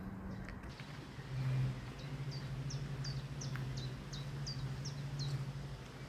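A songbird repeating short, high, down-slurred notes, about three a second, over a steady low hum that swells about a second and a half in.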